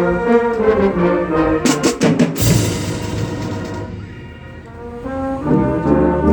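Marching band brass playing slow held chords, with cymbal crashes about two seconds in that ring away. The band fades softer, then swells back in with loud full chords near the end.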